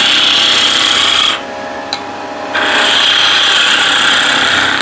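Wood lathe spinning a blank while a turning tool cuts into it: a steady hiss of wood being shaved, with the motor humming underneath. The cut stops for about a second in the middle, leaving the lathe running, then resumes.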